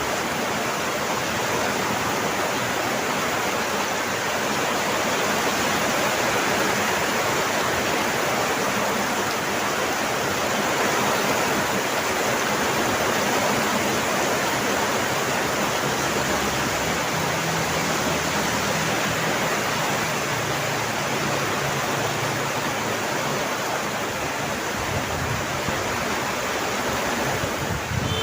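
Heavy, steady rain: a dense, even hiss of falling water with no distinct drops or gaps.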